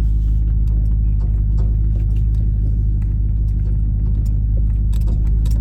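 Truck engine running at low, steady revs, heard inside the cab as the vehicle creeps down a steep hill on its brakes, with no low-range gearing to hold it back. Light ticks and rattles of loose gear come through over the engine.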